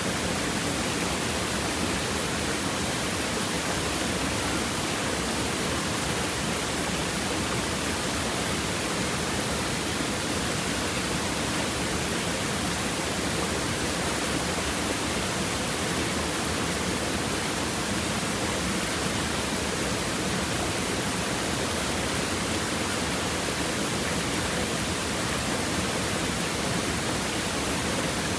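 Stream water running and babbling over rocks in a steady, even rush.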